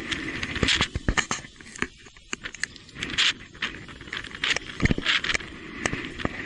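Irregular knocks, clatters and scraping from an e-bike riding over a rough, wet trail, over a steady hiss of tyres and rain.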